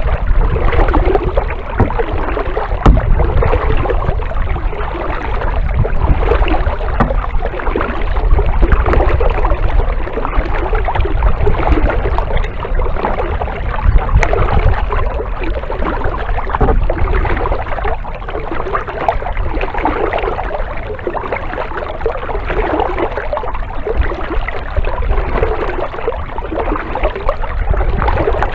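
Kayak paddle strokes dipping and splashing through the water, the splashing swelling every two to three seconds as each blade goes in, over a steady low rumble.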